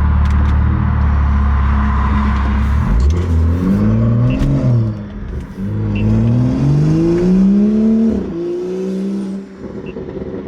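Ford Mustang GT's 5.0 V8 through a full MBRP aftermarket exhaust, running steadily and then revving up twice. The pitch climbs and falls about four seconds in, then climbs again and drops off sharply a little after eight seconds.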